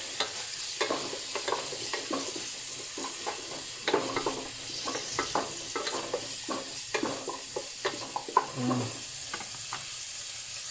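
Chopped tomatoes frying in oil with sautéed onion and chili, sizzling steadily while a utensil stirs the pan, with frequent irregular clicks and scrapes against the metal.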